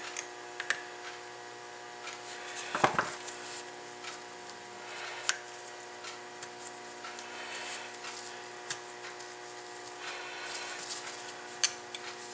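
Small clicks, taps and handling noises of a new rubber seal being worked into its groove in a brake caliper bore, with a louder knock about three seconds in. A steady hum runs underneath.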